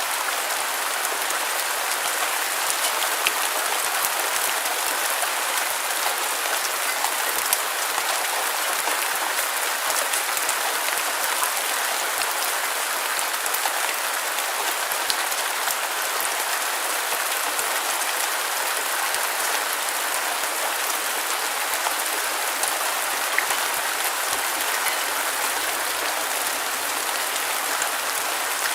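Steady, unbroken rain noise: an even hiss of rainfall with scattered small drop ticks and little low end, never rising or falling.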